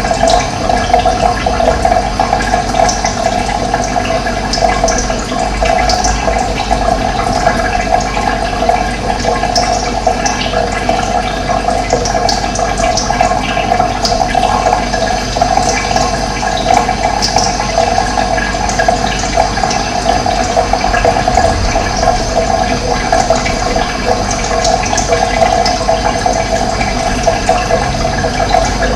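Running water: a steady, unbroken rushing with a strong mid-pitched band, and short high chirps here and there above it.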